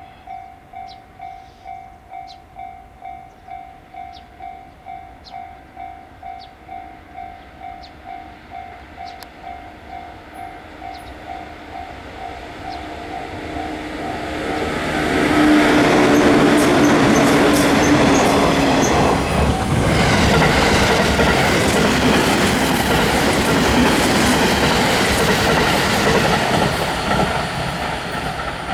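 A level-crossing warning bell dings steadily about twice a second. About halfway in, a JR 115 series electric multiple unit approaches and passes close by: loud running noise and wheels clattering over the rail joints drown out the bell for most of the rest, then ease off near the end.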